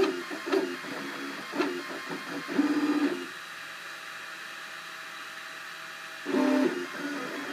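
Cubify 3D printer's stepper motors buzzing through print moves: short pitched bursts about once a second, then a quieter steady hum for about three seconds before another burst near the end.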